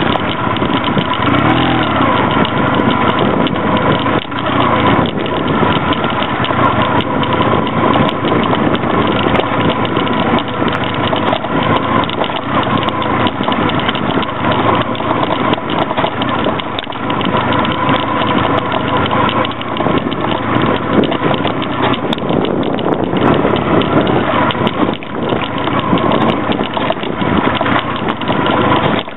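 Honda Rebel 250 motorcycle engine running at a steady, low pitch while the bike is ridden over rough, stony ground, with scattered knocks and rattles throughout from the jolting.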